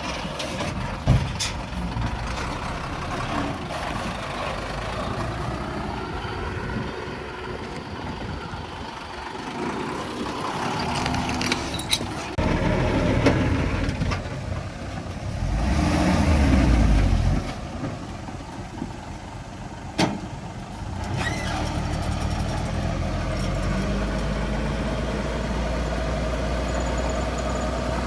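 Diesel engines of a dump truck and a small bulldozer working, with a louder surge of engine noise for about two seconds past the middle, a sharp snap about two-thirds of the way through, and steady running near the end.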